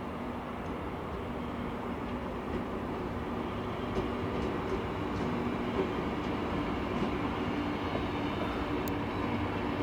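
A train running on the rails, a steady rumble with a low hum that grows slightly louder as it comes closer.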